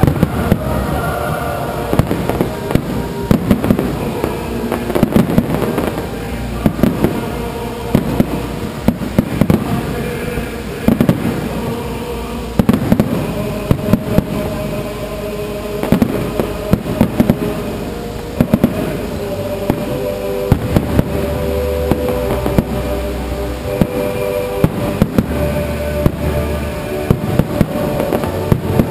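A fireworks display with aerial shells bursting in quick succession: many sharp bangs and crackles throughout, over music playing along with held notes.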